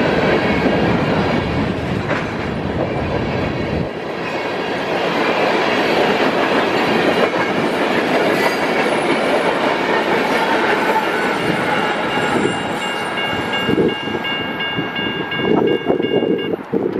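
Empty covered hopper cars of a grain train rolling past a grade crossing, their wheels clattering over the rails, with the crossing bell ringing. The last cars clear about three-quarters of the way through, leaving the bell, which stops near the end.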